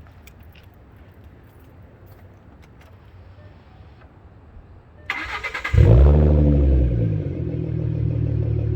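2013 Ford Mustang's 3.7-litre V6 with its mufflers deleted, cranked by the starter about five seconds in, catching with a loud flare and settling into a steady idle.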